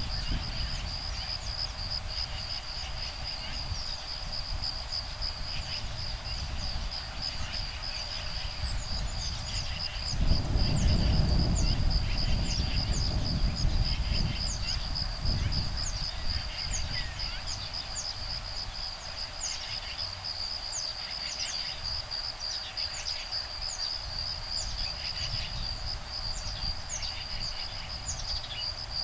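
A steady, high insect trill under many short bird chirps and calls, with a low rumble of breeze on the microphone about ten seconds in that lasts several seconds.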